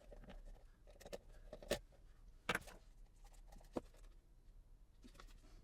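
A few sharp clicks and small knocks of handling a small plastic part, the loudest about a third of the way in and at the middle, with lighter ticks between.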